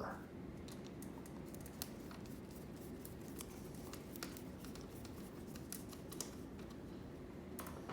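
Faint, irregular small clicks and rustles of hands working a chair strap against the lawn chair's aluminum frame, over a low steady room hum.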